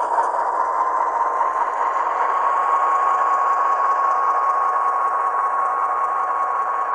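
HO-scale model locomotive's Tsunami 2 sound decoder playing a GE diesel engine running, heard through its small onboard speaker, thin with no deep bass, steady as the model rolls in reverse, with a steady whine near the middle of the sound.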